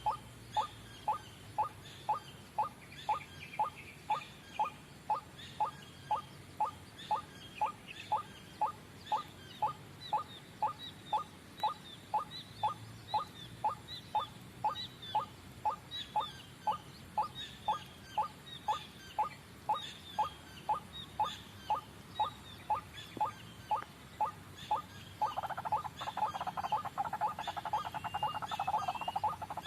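White-breasted waterhen (ruak-ruak) calling: a short croaky note repeated steadily about twice a second, breaking into a dense, rapid croaking chatter near the end. Faint higher chirps run over it.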